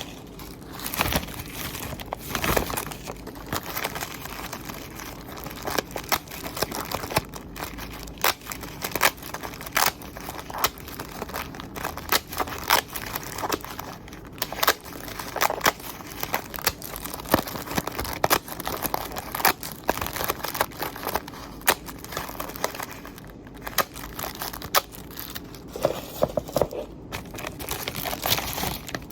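Irregular small clicks and crinkling from small objects being handled, going on steadily with short pauses.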